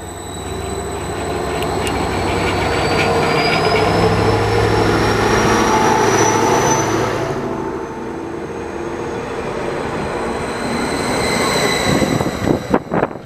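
Class 755/4 bi-mode train running under power, its rumble loud and dense, with a thin high whine that climbs steadily in pitch for about seven seconds. After that the sound eases and the whine drops away, and a few clicks come near the end.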